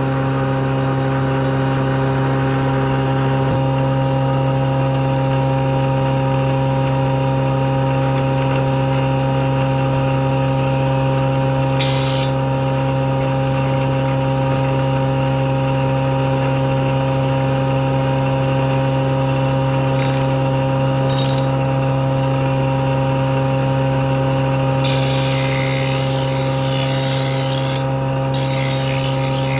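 Blade-sharpening machine's electric motor running with a steady, loud hum. Short hissing bursts come about twelve and twenty seconds in, and a longer stretch of hiss runs near the end, as the blade is ground.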